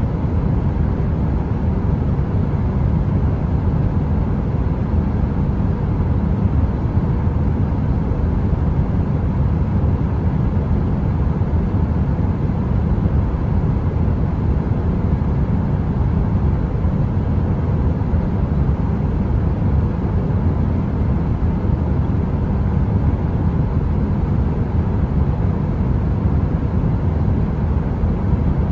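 Heater white noise: a constant deep rumbling drone, heaviest in the bass, with a faint steady hum and no crackling.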